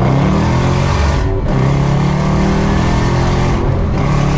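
A car engine running hard under acceleration, its pitch holding steady between two brief breaks, about a second in and near the end, that sound like gear shifts.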